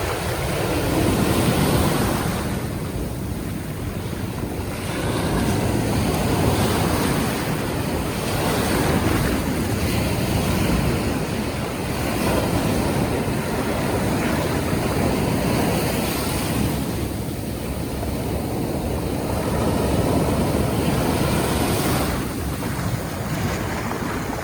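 Ocean surf breaking and washing through a river mouth, the rush swelling and easing every four or five seconds, with wind buffeting the microphone.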